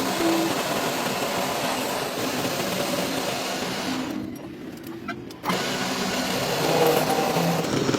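A machine running steadily. It drops away about four seconds in and cuts back in abruptly about a second and a half later.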